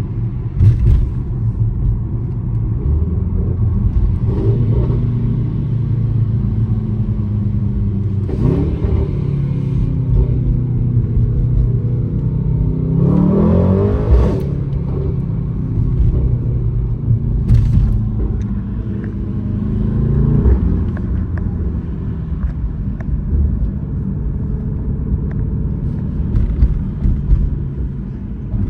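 Mercedes-AMG GT63 S twin-turbo V8 with a straight-piped exhaust, heard from inside the cabin while driving: a steady low rumble whose revs climb several times under acceleration, most strongly about 13 seconds in, with a few short sharp cracks.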